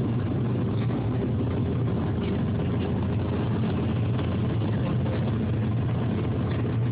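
Steady in-car drone of a car's engine and tyres on the road while driving, a low hum that stays even throughout.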